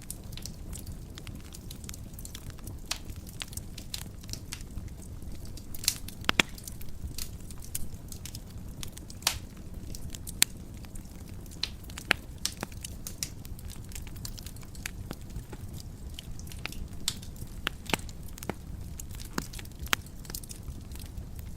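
Wood fire burning in a fireplace: a steady low rumble of the flames with irregular sharp crackles and pops of burning logs, a few louder snaps scattered through.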